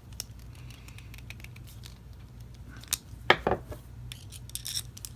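Small metal clicks and clinks from a clock movement's nuts and parts being worked loose and handled during disassembly, with a few louder clinks about three seconds in and again near the end.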